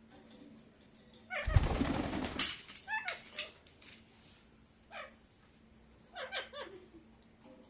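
Pet parakeet giving short calls that sweep downward in pitch, a few in quick succession, after a loud rustling burst about a second and a half in.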